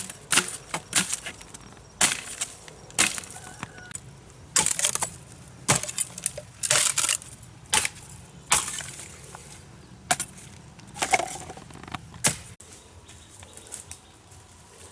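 A run of sharp knocks and cracks, irregular, about one or two a second, that stop about twelve seconds in.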